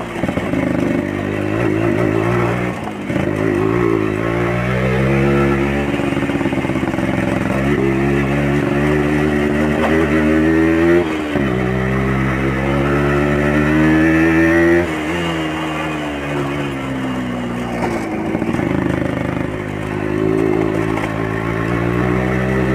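A 1984 Yamaha RX Special's 115 cc two-stroke single, breathing through an original RX King exhaust, running under way. Its pitch climbs and drops several times as the bike is accelerated and shifted through the gears.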